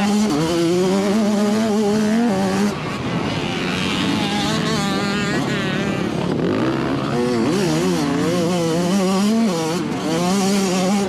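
Dirt bike engines running on a motocross track, their pitch rising and falling as they rev and shift.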